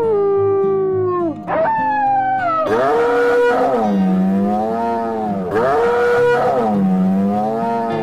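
Long animal calls over background music, gliding down and up in pitch, with a wavering call repeated several times from about three seconds in.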